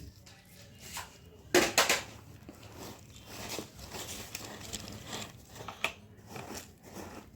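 Soil being dug and scraped away by hand to free buried toy vehicles: crunching and scraping of dirt, with a couple of sharp knocks about a second and a half in.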